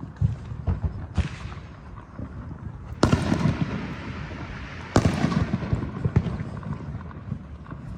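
Fireworks going off: two loud bangs about two seconds apart, each followed by a long rolling rumble and crackle, with a smaller pop a second in.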